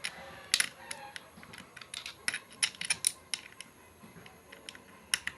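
Irregular light metallic clicks and taps of small parts of a mini electric chainsaw attachment being handled and fitted together, several of them close together in the first half.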